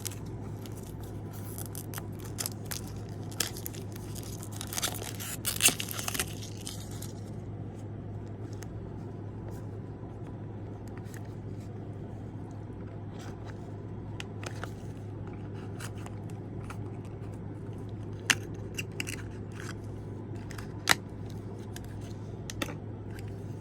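Small plastic packaging and items being handled: scattered clicks and crinkles, with a denser crinkling rustle for about two seconds around five seconds in, then only a few sharp clicks later on.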